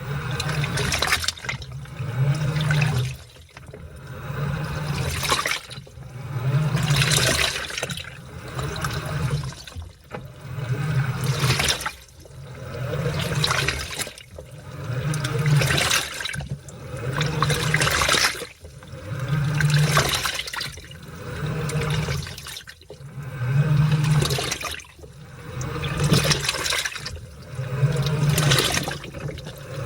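Washing machine in its wash cycle, churning a load of laundry in water: the motor hums and water sloshes in repeated surges about every two seconds, with short lulls between.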